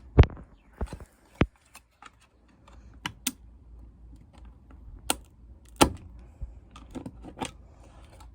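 Sharp, irregular clicks and snaps of small model-car parts being pried apart and handled, about nine in all. The loudest snap comes just after the start.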